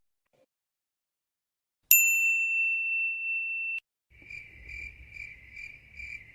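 Sound-effect ding: a single bright bell-like tone that rings for about two seconds and cuts off sharply. It is followed by the cricket-chirping sound effect, pulsing a little over twice a second, the stock cue for an awkward silence.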